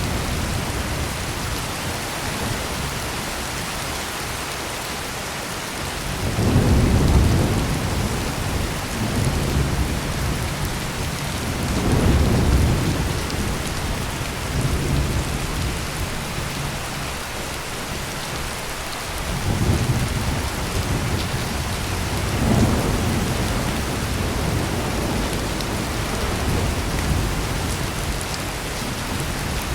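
Heavy rain pouring steadily, with thunder rolling in low rumbles that swell up several times, the strongest about six seconds in and again around twelve and twenty seconds.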